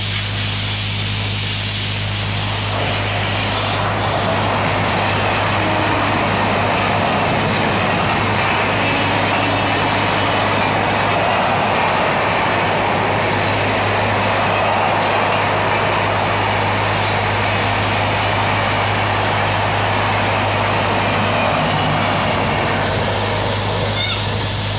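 Express train of LHB passenger coaches running past close by: a loud, steady rush of wheels on rail with a constant low hum underneath.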